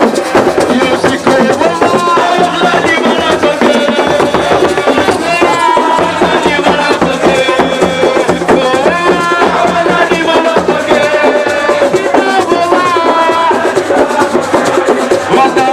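Loud, continuous drumming with several voices singing over it.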